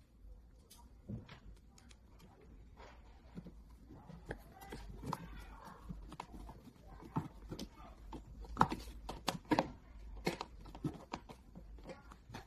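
Scattered, irregular clicks and knocks of parts being handled and fitted during assembly, the loudest coming in a cluster about two-thirds of the way through.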